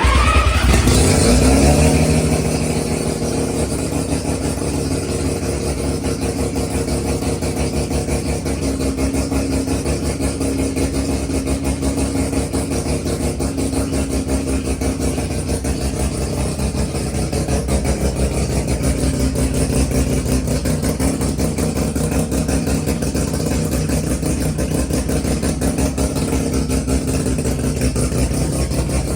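Street-ported 13B rotary engine firing up, revving briefly with rising pitch for about two seconds, then settling into a steady idle.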